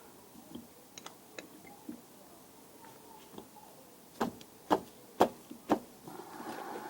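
Hand-tool work on a car's rear brake assembly while a bolt is being undone: a few light metallic clicks, then four sharp knocks about half a second apart a little after halfway, and a brief scraping rustle near the end.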